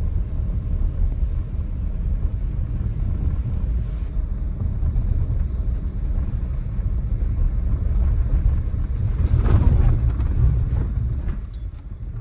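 Steady low rumble of a vehicle driving, heard from inside the cabin, swelling louder for a second or so about nine seconds in and easing off near the end as it slows.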